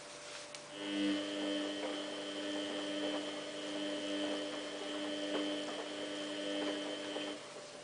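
Samsung WF8804RPA washing machine humming steadily with a pitched mechanical tone that starts about a second in and cuts off near the end.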